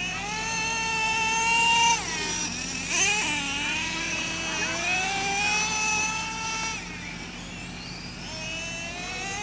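Radio-controlled race cars running at speed: a high-pitched motor whine that climbs in pitch as they accelerate, then drops sharply about two seconds in and again near seven seconds, with more than one car's whine overlapping in the middle.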